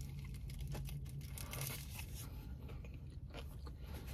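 A person chewing crunchy food close to the microphone, a run of crunching bites, over a low steady hum.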